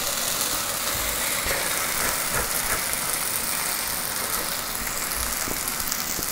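Steady sizzling of squid masala cooking in a pan on the gas hob, with a couple of soft low thumps.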